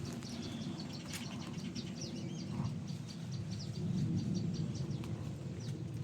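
Evening garden ambience: a steady low wind rumble, with many short high chirps scattered irregularly over it.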